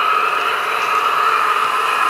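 Märklin H0 VT 11.5 (601) model trainset's sound decoder playing a steady diesel engine running sound through the powered end cars' small loudspeakers, thin and without deep bass.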